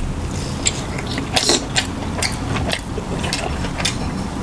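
Close-miked eating sounds: chewing with irregular sharp mouth clicks and smacks, about one or two a second.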